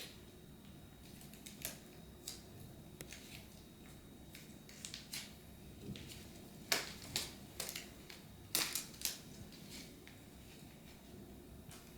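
A dog chewing adhesive tape: faint, irregular crinkling and crackling clicks, with a cluster of louder ones in the middle.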